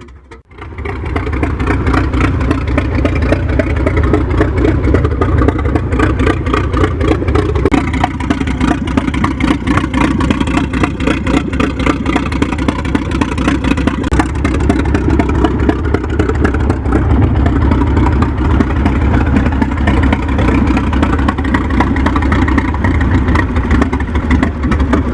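Antique Samson Sieve-Grip tractor engine running steadily with an even firing beat.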